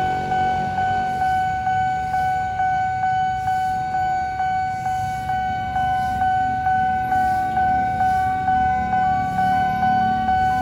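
Electronic railway level-crossing bell ringing in even strokes about twice a second, the warning that a train is approaching. From about halfway a fainter, higher stepped tone pattern joins it.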